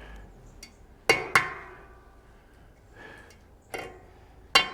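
Hammer striking a steel roll pin on a metal workbench to close one end of the pin up: two sharp, ringing metallic blows about a second in, a light knock, then another blow near the end that starts a quick run of strikes.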